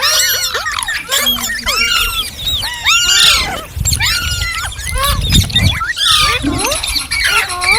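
Pet green parrot chirping and squawking in a rapid, unbroken string of shrill calls, each a quick sweep up and down in pitch.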